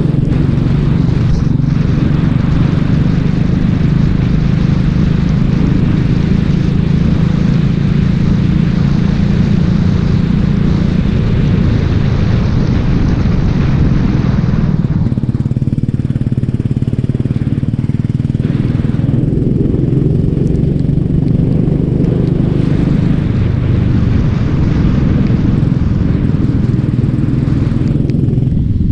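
Racing kart engine running hard, heard onboard, its steady pitch shifting downward about halfway through and changing again later on, with a constant hiss over it.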